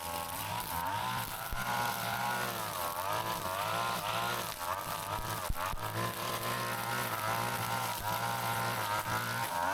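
Petrol brush cutter's small two-stroke engine running continuously, its pitch wavering up and down as the throttle and cutting load change.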